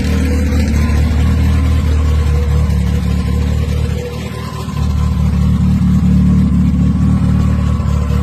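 Car engine running with a steady, deep note. About halfway through it drops off briefly, then picks up again a little louder.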